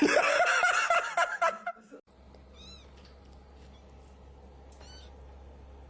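A cat meowing in a loud, long, wavering yowl for about two seconds, then a sudden cut to a low steady hum with a couple of faint high chirps.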